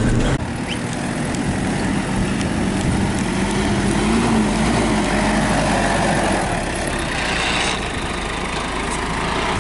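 A motor vehicle running, with a steady spread of engine and road noise.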